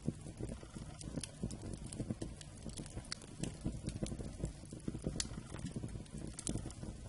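Wood fire burning, with frequent irregular crackles and sharp pops over a steady low rumble of the flames.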